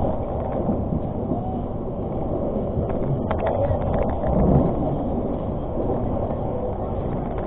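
Steady rumble of a moving passenger train. A short run of sharp clicks comes a little over three seconds in.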